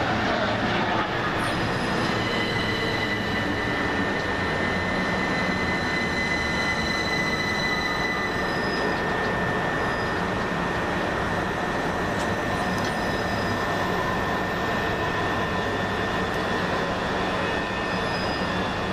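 Electric multiple-unit passenger train moving along the platform with a steady running rumble. A high metal-on-metal squeal of steel wheels on rail is held for several seconds and fades in the second half.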